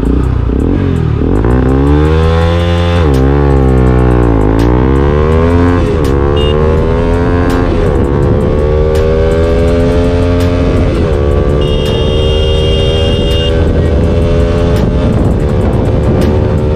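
Bajaj Pulsar NS200's single-cylinder engine through an aftermarket R9 Racing exhaust, accelerating hard from a standing launch up through the gears. The engine note climbs and drops back at each upshift, several quick shifts in the first six seconds, then longer, slower climbs as speed builds.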